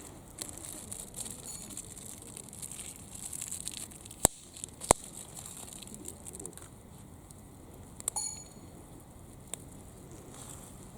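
Rustling and handling noises with two sharp clicks about half a second apart near the middle, then a brief ringing metallic clink.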